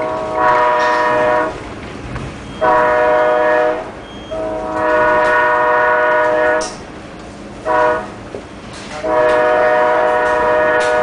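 Amtrak passenger locomotive's multi-note air horn sounding a series of blasts: two long, one short, then a long one, the standard grade-crossing warning. A low train rumble runs underneath.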